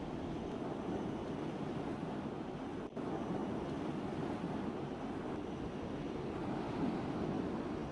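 Steady rumbling wash of wind and water noise, with a brief dropout about three seconds in.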